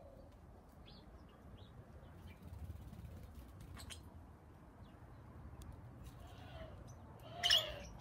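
Garden birds chirping faintly with a few short, high chirps. About seven and a half seconds in there is one brief, much louder harsh sound.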